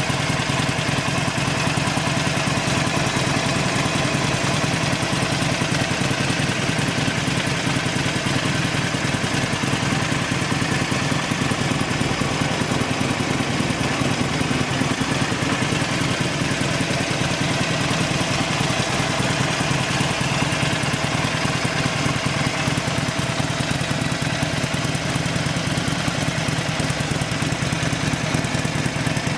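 Harley-Davidson Sportster XL1200CX Roadster's 1200 cc air-cooled V-twin idling steadily, with no revving.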